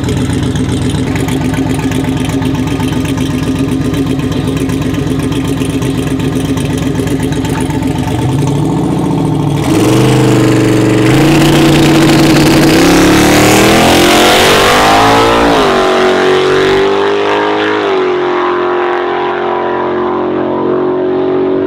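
Turbocharged LS V8 street truck idling steadily, building revs, then launching hard just before ten seconds in and accelerating, its pitch climbing in steps through the gears before it settles lower and the sharper high end fades away.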